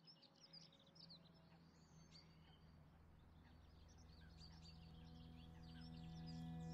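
Faint birds chirping, many short quick calls, over a low held musical drone that slowly swells louder as the music fades in.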